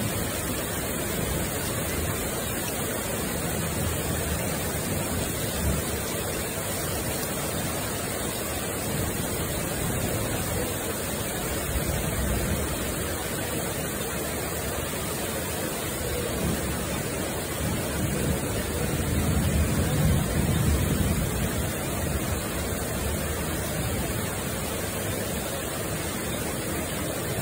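Heavy rain from a thunderstorm falling steadily, a constant hiss. About two thirds of the way through, a low rumble swells louder for a few seconds.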